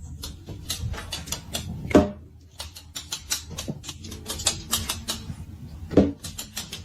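A quick, irregular run of small clicks and taps, several a second, with two louder short sounds that fall in pitch, about two seconds and six seconds in.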